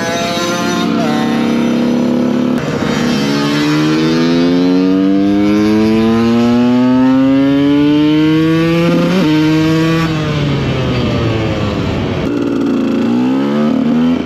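Two-stroke supermoto engine heard onboard, revs climbing in one long steady pull, dropping abruptly at a gear change about nine seconds in, then falling away as the bike slows and picking up again near the end.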